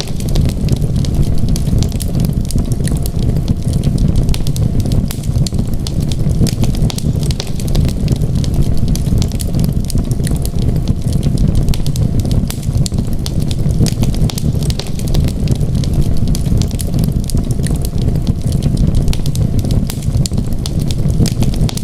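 Wood fire crackling in a fireplace: many small, irregular snaps and pops over a steady low rumble.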